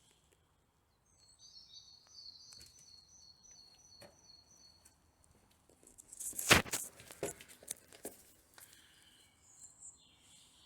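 A bird sings a few seconds of high, thin twittering notes. Then, about two thirds of the way in, comes a short, loud rustle and clatter, the loudest sound, followed by a few light knocks.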